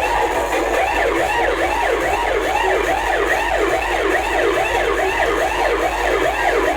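Electronic siren sound effect blasted through a DJ loudspeaker system: a loud wail sweeping rapidly up and down, about two to three times a second, over a steady low hum. It cuts off near the end.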